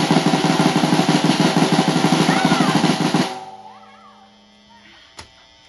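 A fast, loud drum roll on a drum kit that stops abruptly about three seconds in, followed by a single faint click near the end.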